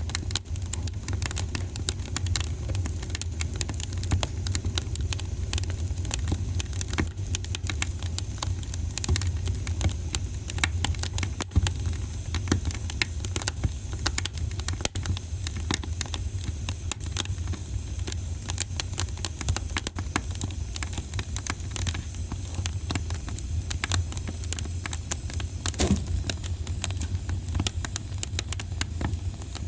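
Wood fire in a fireplace crackling, with a constant stream of sharp irregular pops over a steady low rumble. A louder pop stands out about 26 seconds in.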